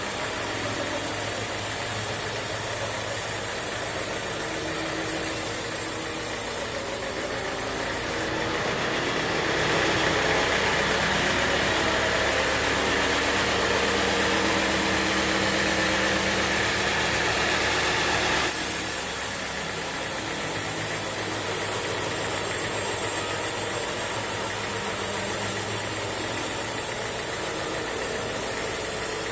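Band sawmill running with a steady engine-like hum. From about eight seconds in to about eighteen seconds a louder hiss joins it, as the blade cuts through a teak log, then drops away abruptly.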